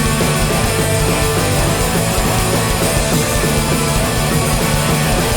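Live hardcore punk band playing an instrumental passage: distorted electric guitars, bass and drums at full volume, with no vocals.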